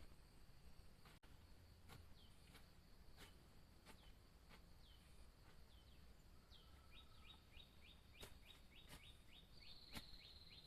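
Faint bird calls: short high notes slurring downward, at first spaced out, then in a quick run of about three a second through the second half, ending with a short buzzy trill. Scattered faint ticks and a low steady hum lie underneath.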